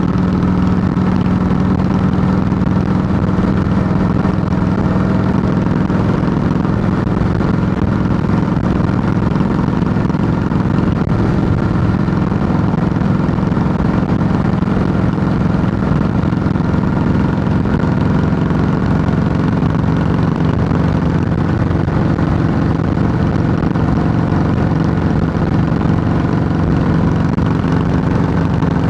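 2008 Harley-Davidson Heritage Softail Classic's air-cooled Twin Cam 96 V-twin running steadily and loud through Samson true-dual fishtail exhaust pipes, its pitch easing slightly about halfway through.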